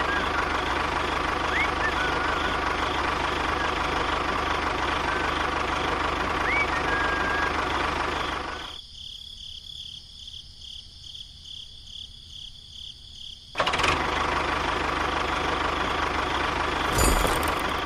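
A small motor running steadily with a faint even pulse. Its sound drops away for about five seconds around the middle, then comes back.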